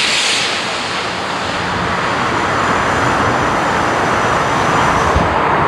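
Steam locomotive and its train running by: a steady, loud rushing roar, following on from a hiss of steam.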